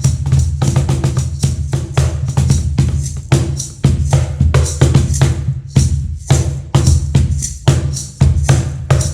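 Meinl cajon played by hand in a steady, busy groove: deep bass strokes alternate with sharp, crisp slaps that set the snare wires buzzing.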